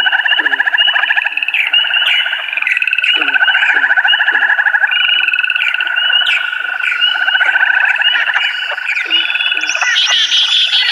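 Chorus of many frogs calling together: overlapping pulsed, rattling trills that run without a break, with a higher trill joining near the end.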